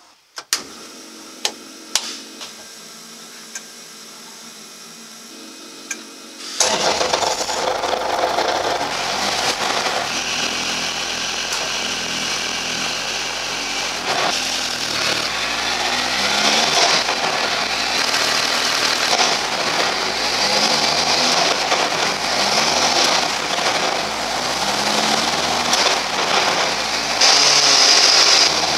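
Several sharp switch clicks over a steady electrical hum. About six and a half seconds in, the rally car's engine starts and runs loudly, rising and falling in pitch over and over as it is revved and shifted up through the gears of a Quaife 60G sequential gearbox, with the wheels spinning free and unloaded.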